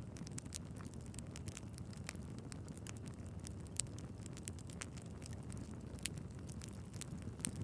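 Wood fire burning in a fireplace: a steady low rush of flames with frequent small crackles and scattered sharper pops, the loudest a little under four seconds in and again about six seconds in.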